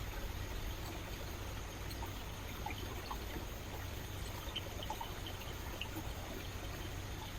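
Rainforest river flowing steadily, with small trickles and splashes.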